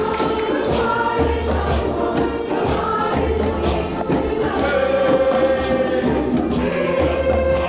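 Community choir singing in several parts, held notes over a steady beat with low thuds underneath.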